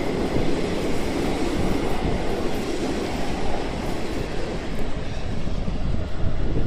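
Passenger train passing, its carriages' wheels running steadily over the track.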